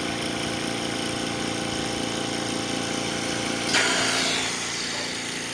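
Invacare Platinum 10 oxygen concentrator running on its replacement compressor: a steady machine hum, with a sudden hiss of released air a little under four seconds in as the valves switch.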